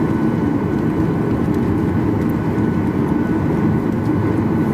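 Boeing 737-800's CFM56-7B jet engines running steadily at low power, heard as a constant drone inside the passenger cabin with a faint steady whine above it.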